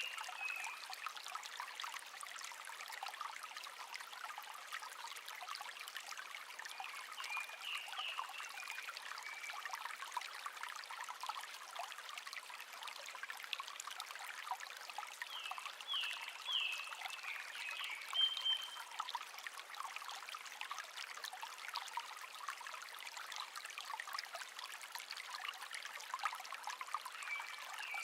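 Shallow stream babbling and trickling steadily, with a wild songbird giving short chirps in a few scattered bursts over it.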